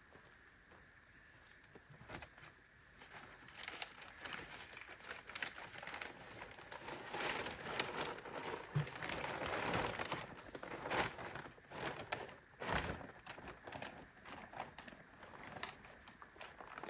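Rustling, crinkling and irregular light knocks of things being handled and moved, starting a few seconds in.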